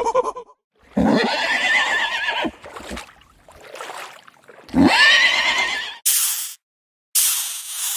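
A horse whinnying twice, each call rising from low and then quavering high, with a fainter call between them. Near the end come two short bursts of hissing.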